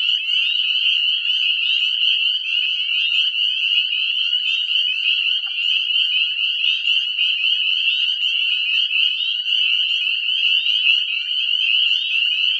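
Breeding chorus of northern spring peepers: many short, high, slightly rising peeps overlapping into a dense, steady din.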